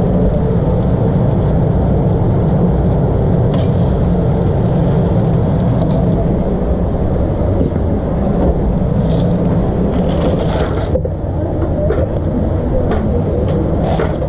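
Steady low machine drone, with a few short clatters and scrapes about a third of the way in, around two-thirds through and near the end.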